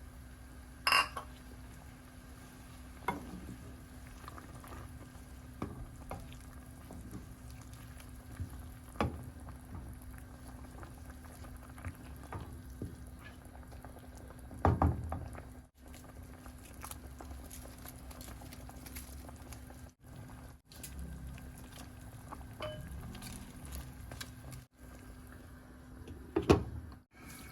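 A pot of fish soup simmering with a steady bubbling hiss over a constant low hum. A utensil knocks and clinks against the pot a handful of times, loudest about a second in, around the middle and near the end.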